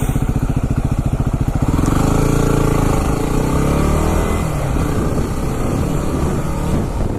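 Motorcycle engine running under the rider: the pitch rises about two seconds in as it accelerates, then falls away as it slows, with wind rush over it.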